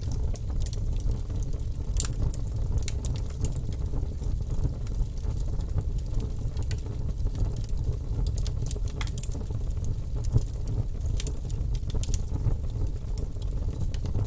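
Fire in a fireplace crackling: many small sharp pops scattered over a steady low rumble, with one louder pop about ten seconds in.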